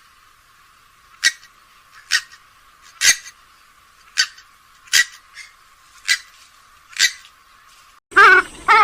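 Grey-headed swamphen giving seven short calls, about one a second, over a faint hiss, the recording thin with no low end.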